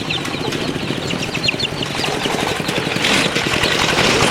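An engine running with a fast, even beat, with chickens clucking and chirping over it; the engine gets louder about three seconds in.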